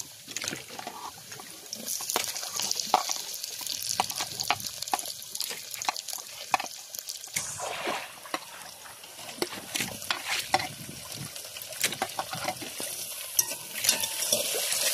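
Garlic, onion and tomato sizzling in hot oil in a small metal pot, with a steady hiss and frequent sharp clinks and scrapes as a spoon stirs the pot and tips in vegetables.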